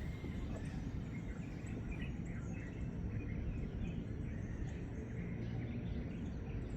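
Outdoor ambience: a steady low rumble with small birds chirping here and there.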